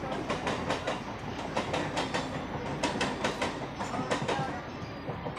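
Express train's wheels clattering over rail joints in a quick, uneven run of clicks, about four or five a second, over a steady running rumble. The clatter dies away about four and a half seconds in, leaving the rumble.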